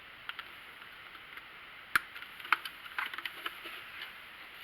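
Scattered sharp clicks and light taps of small plastic objects being handled, the loudest about two seconds in, over faint background hiss.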